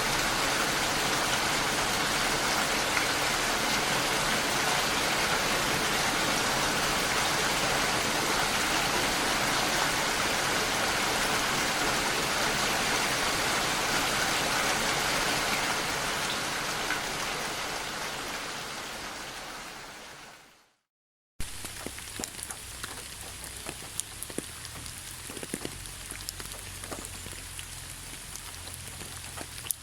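Steady heavy rain that fades out about two-thirds of the way through. After a moment of silence, lighter rain follows, with individual drops pattering and dripping close by.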